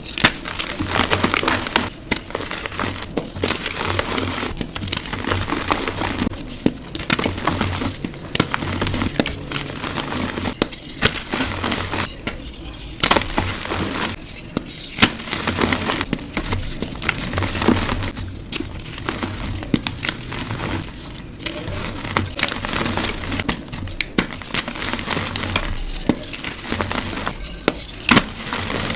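Gym chalk blocks being crushed, a continuous dry crunching and crumbling with many sharp cracks.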